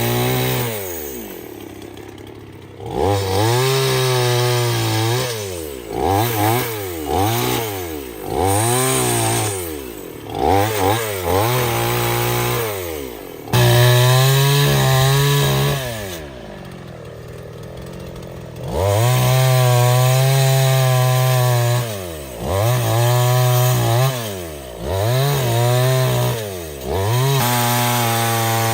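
Chainsaw engine revved again and again, its pitch swooping up and down with each throttle blip. It holds steady at high revs in several longer stretches and drops back to a lower idle twice.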